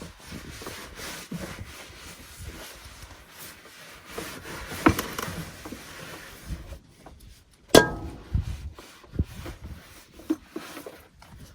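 Scattered knocks, clicks and rubbing from handling things by hand, with a sharp click about five seconds in and a louder knock near eight seconds.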